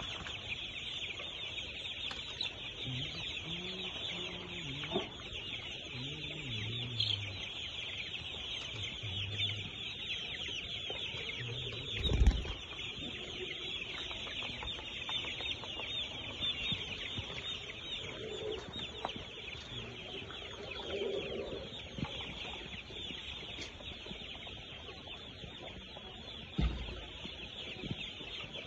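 A large flock of young chickens cheeping continuously, many high calls overlapping into a constant chatter. A dull thump stands out about twelve seconds in, and a smaller one near the end.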